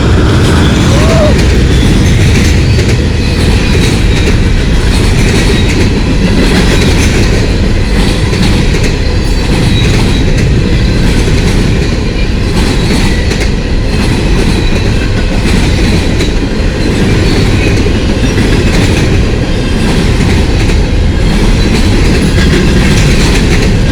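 Freight train of garbage cars rolling past close by: a loud, steady rumble and clatter of steel wheels on the rails, with a faint high squeal from the wheels.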